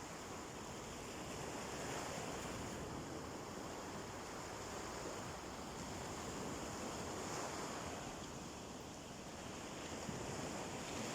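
Sea waves washing onto a beach: a continuous surf hiss that swells and falls back slowly every few seconds.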